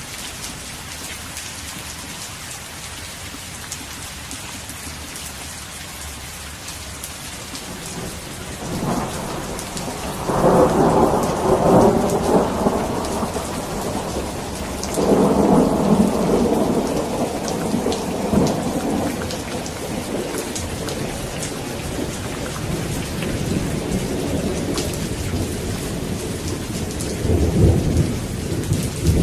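Steady rain with rolls of thunder: the rain patters evenly throughout, and from about a third of the way in long rumbles of thunder swell up and die away, loudest twice in the middle and once more near the end.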